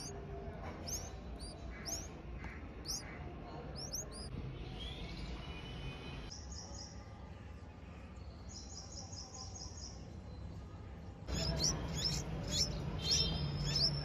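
Red-vented bulbul nestlings begging: repeated short, high chirps, about two a second at first, then a quick even run of them, and a denser flurry near the end, over a low steady hum.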